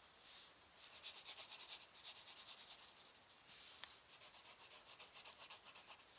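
Pen or pencil colouring in on paper in quick back-and-forth scribbling strokes, about eight a second, with a short pause midway. Faint.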